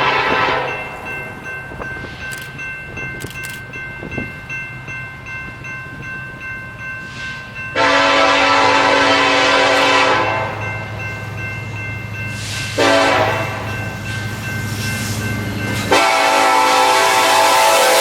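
Diesel freight locomotive's air horn sounding the grade-crossing signal, long, long, short, long, over the steady drone of the locomotive's diesel engine pulling out. The first blast is just ending at the start and the last long blast begins near the end.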